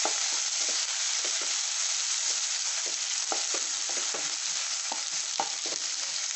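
Chopped tomatoes and onions sizzling in hot oil in a ceramic-coated frying pan, stirred with a wooden spatula that knocks and scrapes against the pan at irregular moments. The tomatoes are being fried down until they soften into a paste.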